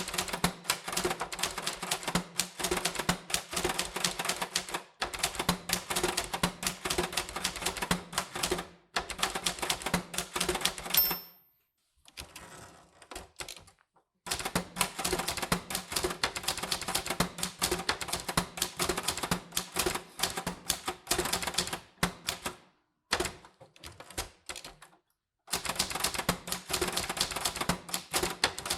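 Typewriter being typed on: fast runs of sharp key clacks with short pauses between them. About eleven seconds in, a brief high ring is followed by a few quieter seconds before the typing resumes.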